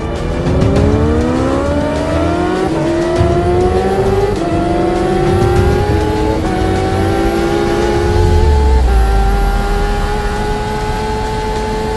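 Motorcycle engine accelerating hard through the gears: its pitch climbs, drops at an upshift, and climbs again four times, then holds high and keeps rising slowly as it nears top speed.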